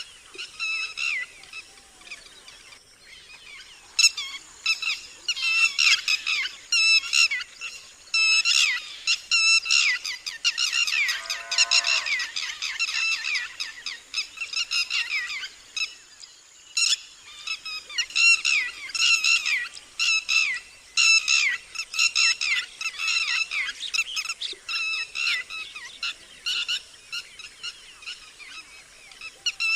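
Red-wattled lapwing giving its loud, shrill alarm calls: rapid series of sharp repeated notes in the 'did-he-do-it' pattern, starting about four seconds in. A lower falling call sounds in the middle.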